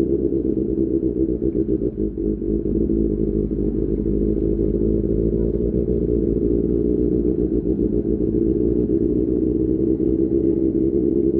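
QJMotor SRK600 inline-four motorcycle engine with an Austin Racing exhaust, running steadily while riding, with a brief dip in the engine note about two seconds in.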